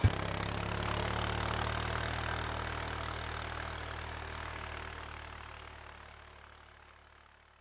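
Four-wheeler (ATV) engine idling steadily, fading out to silence over the last few seconds.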